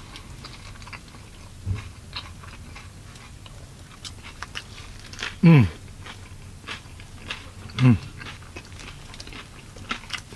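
A person biting and chewing a steak and cheese sub, with a run of small wet mouth clicks. Twice, near the middle and later on, the chewing is broken by a short hum that falls in pitch.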